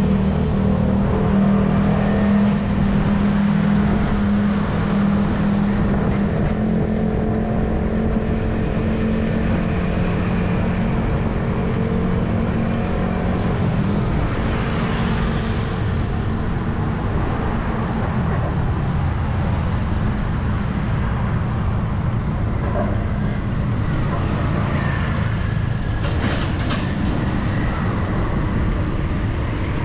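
Busy city street traffic: vehicle engines running and passing close by. A low engine drone is strong for the first half and fades about eighteen seconds in.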